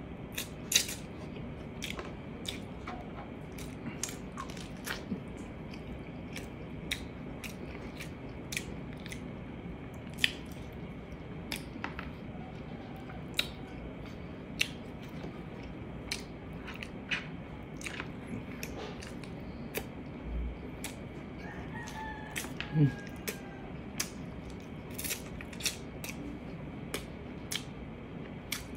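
Close-up chewing of braised pork ribs and rice: a steady run of wet mouth clicks and smacks, about one or two a second. A brief faint falling call is heard about three-quarters of the way through.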